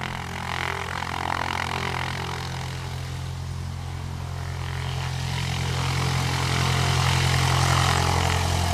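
Light single-engine propeller plane's piston engine running steadily, growing louder from about five seconds in.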